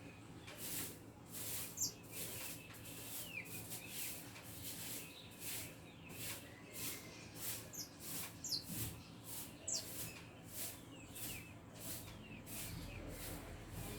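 Birds chirping in the countryside: a high chirp repeating about one and a half times a second, with short chirps falling in pitch mixed in.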